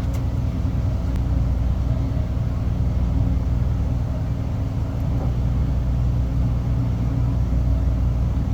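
Steady low drone of a large ship's engine machinery, an even hum with several low tones and no change in level.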